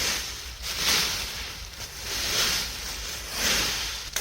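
A rake scraping through dry fallen leaves and chestnut burrs on soil, in repeated strokes about once a second.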